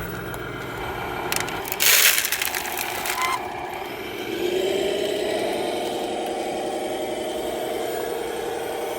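Radio-controlled model truck running with its engine sound: a low rumble fades, then a loud hiss lasting about a second and a half, like an air-brake release, and from about four seconds in a rising engine tone that settles into a steady drone.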